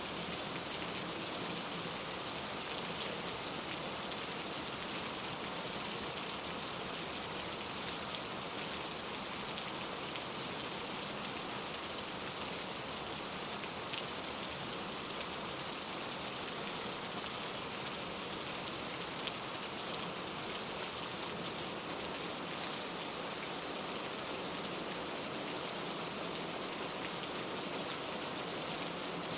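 Steady rain falling, an even, unbroken patter with an occasional single louder drop.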